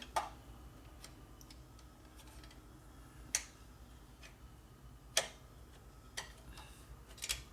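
A handful of single light clicks and clinks, a second or two apart, from a metal part or tool being handled, over a low steady hum.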